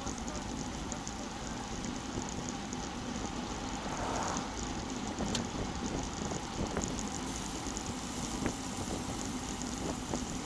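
Steady wind rushing over the microphone of a bike-mounted action camera while riding a road bike, with a few light clicks.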